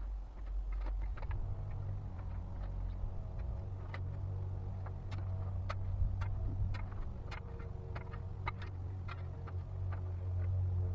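Many short, sharp clicks and scrapes of a shovel working into soil, over a steady low motor hum.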